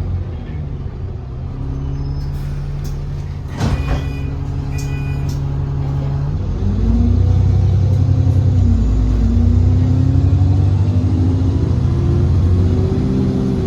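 Alexander Dennis Enviro400 diesel double-decker bus engine idling steadily, with a sharp air hiss about three and a half seconds in and a few short beeps just after. About six seconds in the bus pulls away: the engine grows louder and its note rises, drops back and rises again as the gearbox changes up.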